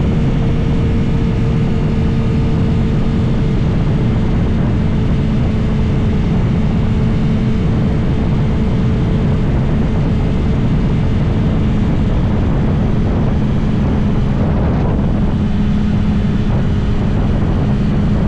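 2022 BMW S1000RR's inline-four engine running at steady revs while cruising, under a heavy rush of wind noise on the microphone.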